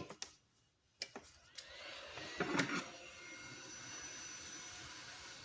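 A couple of clicks, then a hot-air rework station's blower starting up, a faint rising whine settling into a steady hiss of air, blowing hot air on a circuit board to loosen the components' solder.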